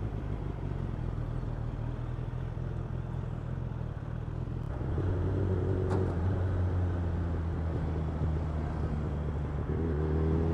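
Suzuki Bandit inline-four motorcycle engine with an aftermarket Ixil exhaust running at low revs, a steady low drone that grows stronger about halfway through. Near the end the pitch climbs as the bike accelerates.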